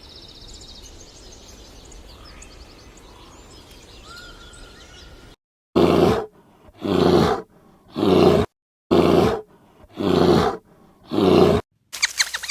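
A large animal roaring six times in a row, each call under a second long and about a second apart. Before it come a few seconds of faint outdoor background with distant bird chirps, and near the end rapid high squeaks begin.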